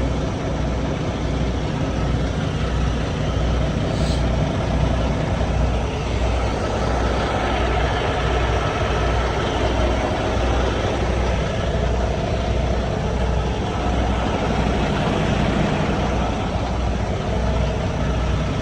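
Semi-truck engine running steadily, with an even low throb under a broad rumble and hiss.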